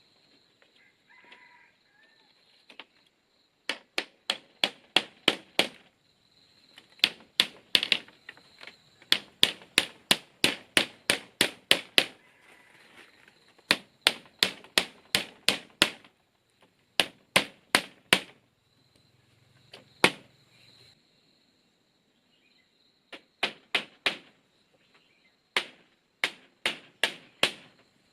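Hand-tool blows on bamboo: quick runs of five to ten sharp strikes, about three a second, broken by short pauses, with one lone hard strike about two-thirds of the way through.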